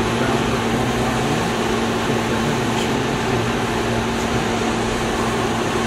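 Heavy construction machinery engine running steadily, a constant mechanical drone with a low steady hum.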